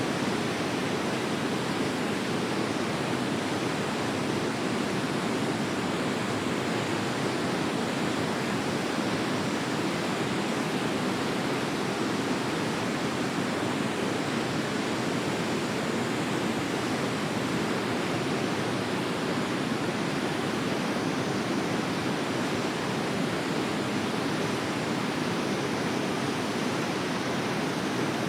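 Forest river flowing steadily: an even, unbroken rush of water.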